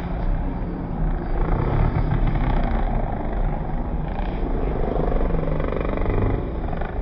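Motocross bike engine running, its pitch rising and falling about four to six seconds in as it revs, over a steady heavy rumble.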